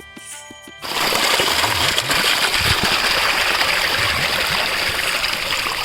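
Waterfall's rushing, splashing water, cutting in suddenly about a second in and running loud and steady. Before that a stretch of music plays, and a faint low beat carries on under the water.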